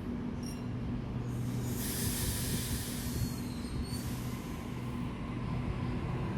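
Electric passenger train at a station, running with a steady low hum. A hiss starts a little under two seconds in and lasts about two seconds, with a faint high squeal near its end.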